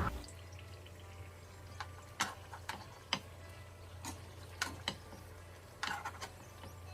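About ten light, irregular clicks and taps, as of utensils and cooked sweet potato pieces handled on a plate, over a low steady hum.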